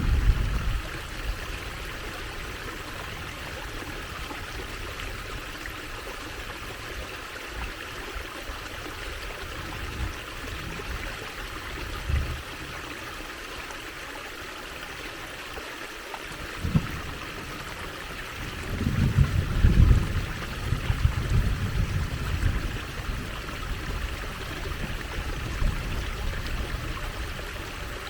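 Water trickling and running steadily, as from a small stream. Low rumbles come and go over it, strongest about two-thirds of the way through.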